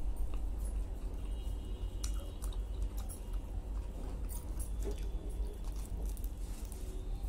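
A person chewing and biting into a chicken salami roll, with soft mouth sounds and a steady low rumble underneath.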